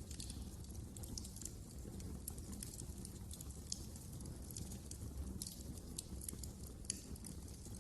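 Wood fire crackling in a fireplace: irregular sharp pops and snaps over a steady low rumble of the burning fire, with one louder pop about seven seconds in.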